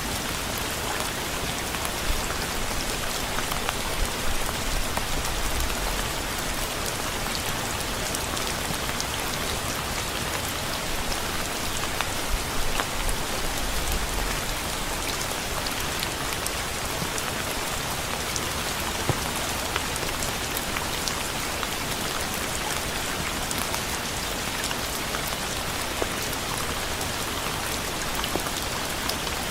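Steady rain falling on a surface: an even hiss with scattered individual drop clicks and a few louder low thumps.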